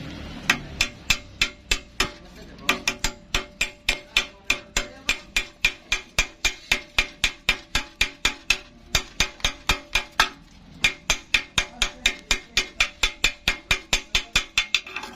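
Hammer striking steel over and over, about three to four blows a second, each with a short metallic ring, with two brief pauses in the second half.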